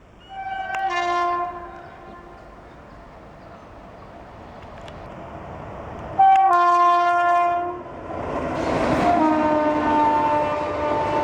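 Indian Railways express locomotive horn sounding twice, the second blast louder. A longer horn follows as the train rushes through at speed, a loud wash of rail noise building under it.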